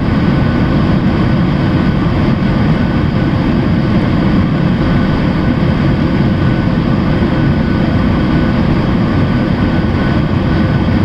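Steady in-flight noise of a Boeing 737-800 heard inside the cabin: the CFM56-7B turbofans and the airflow make an even low rumble with a faint steady whine over it.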